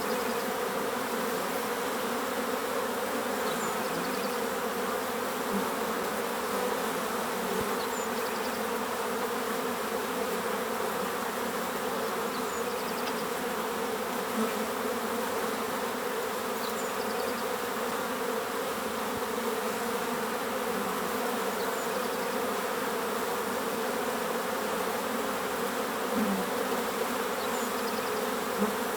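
Many bees buzzing together in a steady, dense hum. A faint, short, high bird call recurs about every four seconds.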